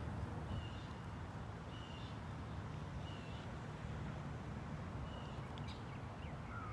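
Short, faint bird chirps, four or five of them spaced a second or so apart, over a steady low rumble.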